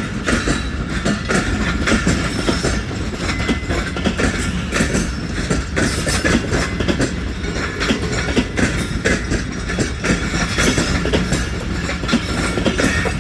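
Passenger train's coaches rolling past close by, a steady loud rumble with the wheels clattering rapidly over the rail joints.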